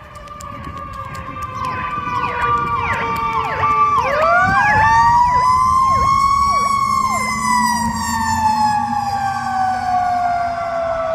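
Fire apparatus responding under siren. A mechanical siren's wail drifts down, spins up sharply about four seconds in, then slowly winds down, over a fast electronic yelp siren and a diesel engine's rumble. The sound grows louder as the trucks approach.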